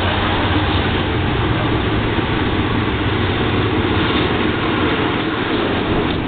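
Diesel locomotive of a passenger train, its engine running with a steady low hum as the train comes into the station.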